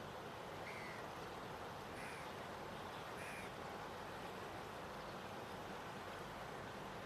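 Steady rushing of a river in flood, with three short bird calls in the first few seconds.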